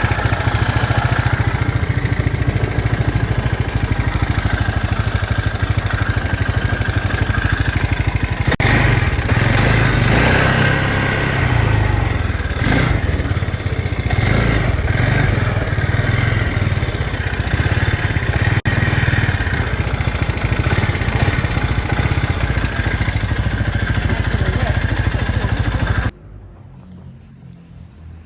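Rented quad bike's engine running while being ridden, with heavy wind rumble on the microphone. The loud noise cuts off suddenly shortly before the end, leaving a much quieter background.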